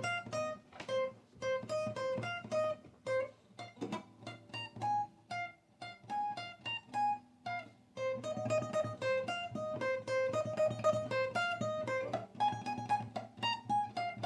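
Guitar played alone, picking single notes one after another in a steady pattern over a sustained low bass note.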